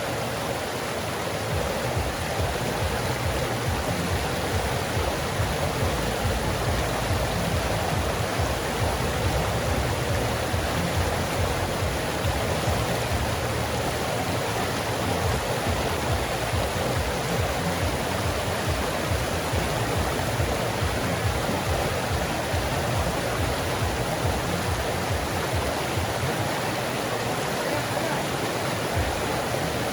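A woodland creek flowing, a steady rush of running water.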